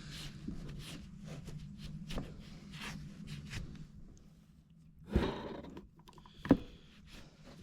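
Handling noises: light rustling and clicking, a thud about five seconds in, and a sharp knock, the loudest sound, about a second and a half later, over a faint steady hum.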